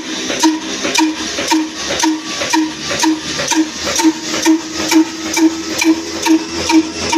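Ruston Hornsby diesel oil engine running steadily, with an even beat about twice a second and a short metallic ring on each stroke.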